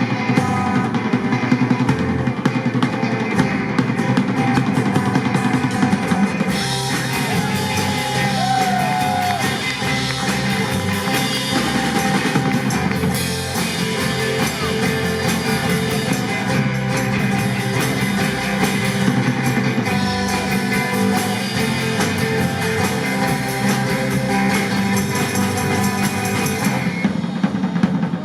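A live band playing a rock number, with a drum kit driving a steady beat under guitar and singing.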